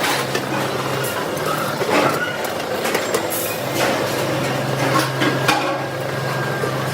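Workshop machine running with a steady low hum that stops briefly and starts again about four seconds in, amid irregular sharp knocks and clatter from metalworking.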